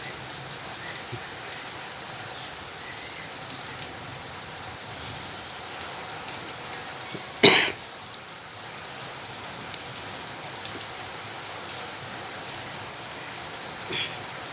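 Heavy rain falling steadily. About halfway through there is one short, sharp, loud sound, and a fainter brief one near the end.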